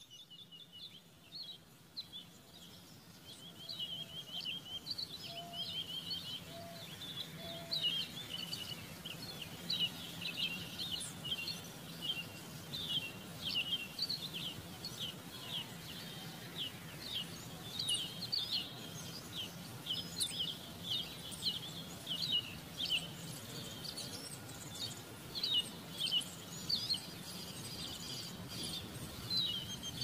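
Small birds chirping busily: many short, high chirps in quick succession that grow denser over time, with a few short lower notes about four to eight seconds in, over a faint steady low hum.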